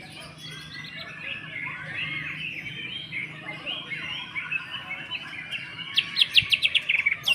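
Green leafbird (cucak ijo) singing a continuous varied warble, ending in a loud fast run of sharp repeated notes about six seconds in.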